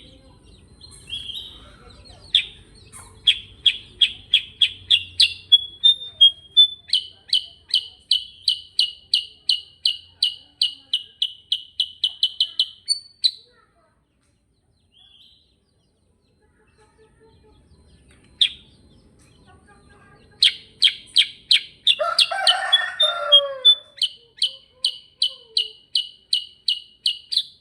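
Kutilang sutra bulbul singing its rolling 'ngerol' song: long runs of quick, evenly repeated sharp chirps, about four or five a second. The song breaks off for several seconds in the middle, then starts up again. Just after it resumes, a short lower, wavering call sounds over it.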